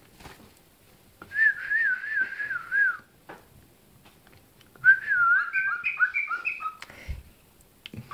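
Cockatiel whistling two warbling phrases, the second breaking into short stepped notes near the end.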